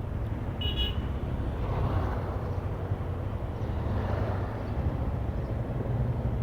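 Motorcycle engine running at low speed amid road traffic, with a short high-pitched horn beep about half a second in.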